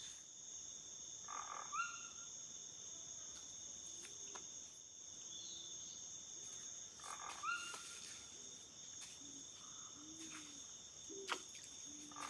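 Night chorus of crickets or similar insects, a steady high-pitched trill held on two tones. A rising animal call comes three times, about every five to six seconds. Short low calls, likely frogs, sound in the second half.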